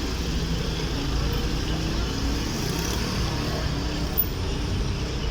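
Steady low rumble of outdoor background noise, with one brief click a little after four seconds.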